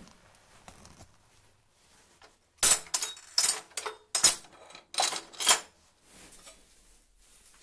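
Metal objects clattering and clinking together, about six sharp knocks with a little ringing in quick succession, starting a little before the middle.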